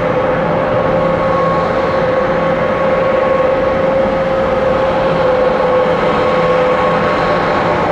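Airbus A321-200 jet engines at takeoff power during the departure roll and climb-out: a loud, steady jet roar with a held engine whine.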